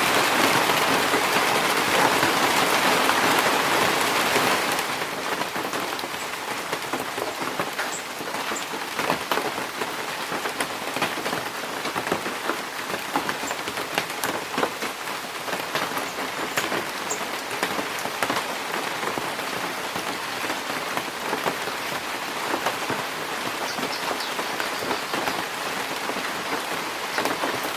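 Rain falling in a forest: heavy and dense for the first five seconds, then lighter, with many separate drops striking leaves and ground. A few brief, faint high bird chirps come through the rain.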